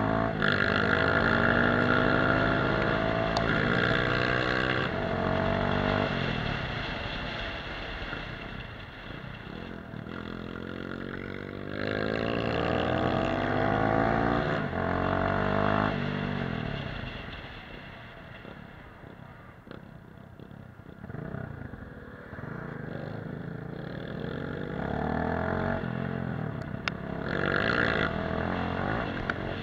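Dirt bike engine revving up and down while riding off-road, its pitch rising and falling again and again; it eases off and quietens around the middle, then picks up again.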